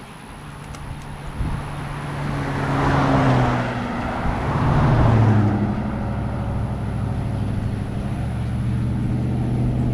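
Road traffic passing on the highway beside the creek: tyre and engine noise swells twice, about three and five seconds in, and a steady low engine hum carries on after.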